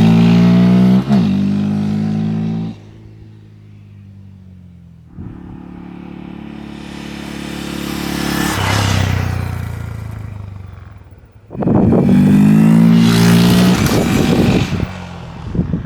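Stock exhaust of a 2023 Honda Grom's 124 cc single-cylinder engine: a loud held engine note that cuts off under 3 seconds in, then the bike passing by, its sound swelling, dropping in pitch as it goes past and fading away. About 11 seconds in the engine is suddenly loud and close again, turning choppy near the end.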